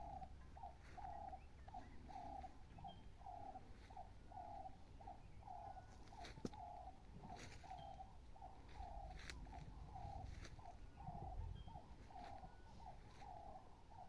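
A bird calling over and over at an even pace, a short note followed by a longer one about once a second, with a faint low rumble and a few scattered clicks.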